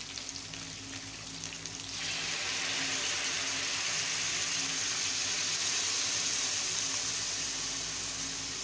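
Onion and capsicum pieces frying in a hot wok, with a steady sizzle that grows louder and brighter about two seconds in as soy sauce is spooned into the pan.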